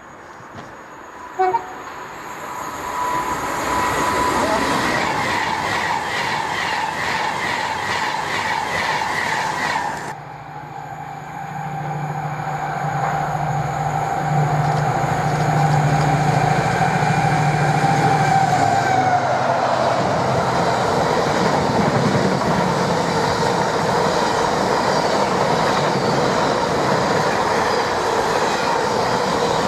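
Trains running through a station at speed: a loud, steady roar of wheels on rail with some clickety-clack. The roar breaks off abruptly about ten seconds in, and another train passes with a hum that drops slightly in pitch, then a sustained roar.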